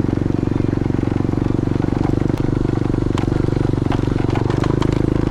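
Motorcycle engine running at a steady speed, an even low hum with occasional light clicks and ticks over it.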